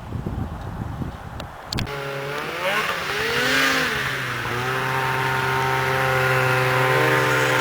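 A vehicle engine revs up and down a couple of times after a sharp click about two seconds in, then settles into a steady run, rising a little near the end. Before the click there is a low rumbling noise.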